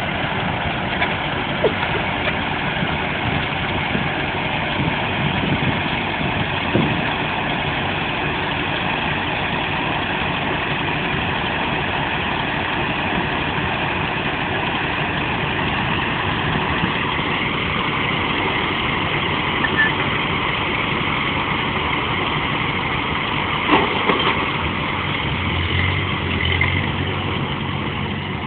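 Ford 8N tractor's four-cylinder gasoline engine running steadily, with a few light clicks.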